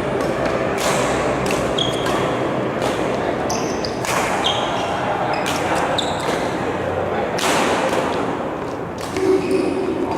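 Badminton rally: rackets strike the shuttlecock about once a second with sharp cracks, and court shoes squeak between shots, over a steady hum of voices echoing in the hall.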